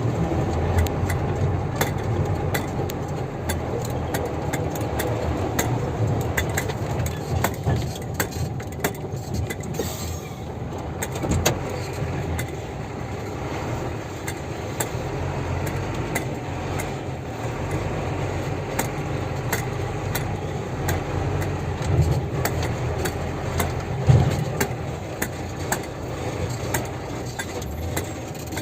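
Dump truck's diesel engine running low and steady, with frequent clicks, rattles and knocks and a few louder knocks along the way.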